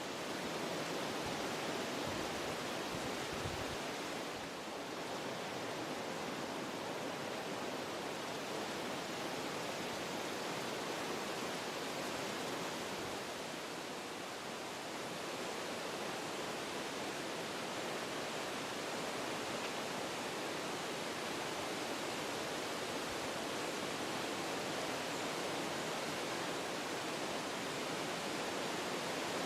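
Wind blowing through forest trees, a steady rushing of moving leaves and branches that swells and eases in gentle gusts.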